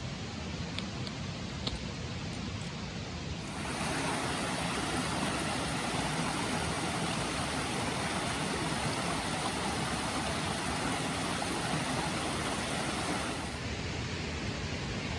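Mountain stream water flowing, a steady wash that grows louder and brighter about three and a half seconds in, then drops back near the end.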